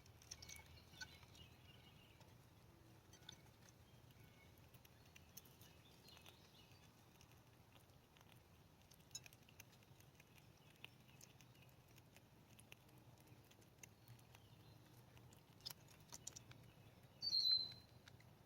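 Small rodents moving and nibbling, heard as faint scattered ticks and scratches, with one short bird chirp falling in pitch near the end, the loudest sound.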